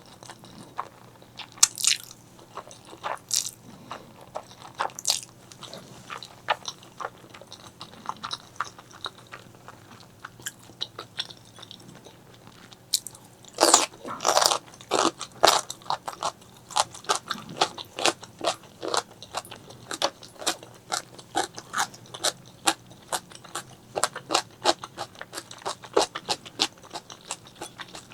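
Close-miked eating: a person biting and chewing a meal of spicy black bean noodles and fried eggs, with many short, sharp wet mouth clicks. The clicks come sparsely at first, grow loudest just after halfway, and then follow one another quickly.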